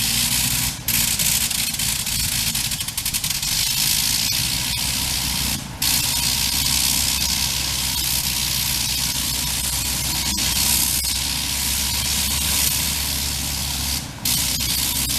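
Le Rhône nine-cylinder rotary engine of a Sopwith Pup replica running at full power during a ground run-up, a loud steady blare. It drops out briefly about a second in, near the middle and near the end, as the ignition is cut with the blip switch, the way this rotary is run full on or full off.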